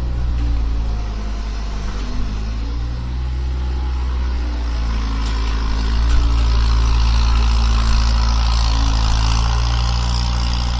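Skid steer engine running steadily, getting a little louder about halfway through.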